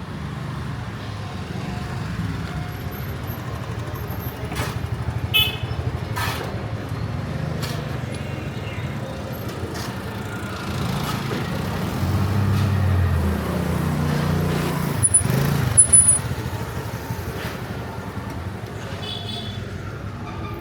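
Street traffic: motor vehicle engines running past close by. The rumble swells as one passes closest a little after halfway, with a few short sharp sounds on top.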